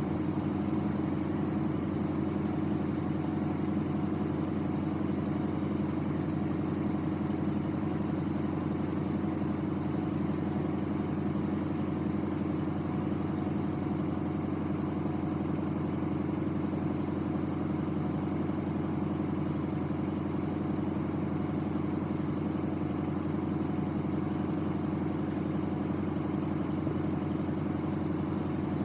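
A diesel vehicle engine running at a steady, unchanging speed.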